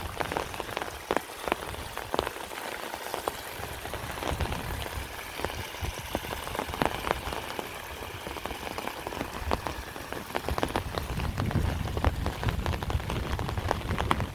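Heavy rain falling steadily, with many individual drops striking close by as sharp taps. A low rumble builds near the end.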